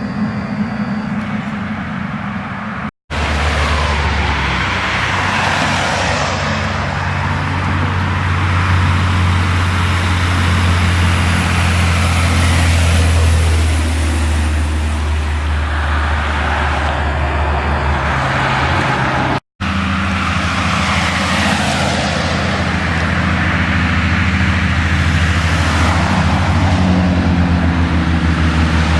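Road traffic with heavy trucks going by: a steady low diesel engine drone under a hiss of tyres that swells and fades as each vehicle passes. The sound cuts out briefly twice, about three seconds in and again past halfway.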